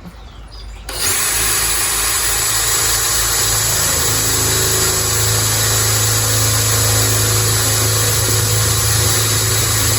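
Electric drill starting about a second in and running steadily for about nine seconds, boring a small starter divot into a planter pot so the bit won't wander before the hole is drilled.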